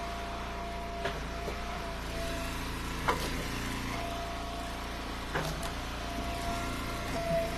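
Eastonmade Ultra hydraulic log splitter's engine running steadily. A thin whine sounds for stretches of a few seconds, and there are about four sharp knocks of wood.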